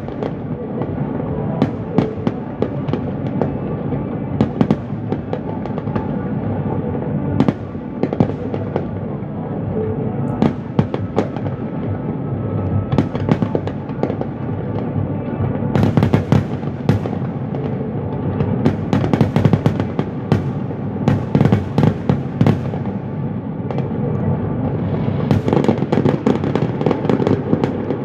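Aerial fireworks display: a continuous rumble of shell bursts with sharp bangs and crackles on top, coming in dense volleys about halfway through and again near the end.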